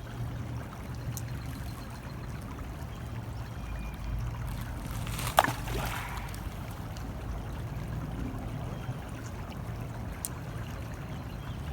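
A thrown rock plunking into water about halfway through, a single sharp splash that is the loudest sound, over a steady low rumble.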